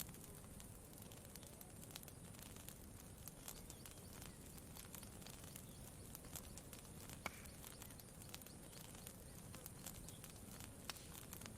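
Campfire crackling faintly, with irregular sharp pops and one louder snap about seven seconds in, over a low steady rumble.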